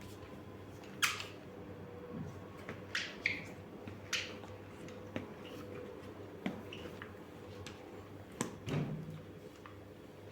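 Light clicks and knocks of household objects being handled, about ten separate taps spread unevenly, over a faint steady hum.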